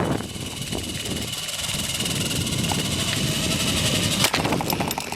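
Zipline trolley running along the steel cable with a steady high whir, wind buffeting the microphone. A sharp click about four seconds in is followed by rattling.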